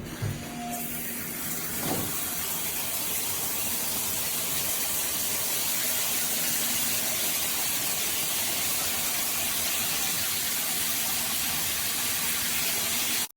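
Shower running through a 12-inch rain shower head: a brief squeak and a thud as it is turned on, then a steady hiss of spraying water that cuts off suddenly near the end.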